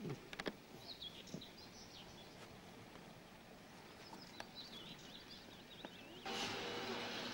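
Faint chirping and warbling of small songbirds, with a few soft clicks in the first half second. About six seconds in, this cuts abruptly to a louder steady hiss and hum.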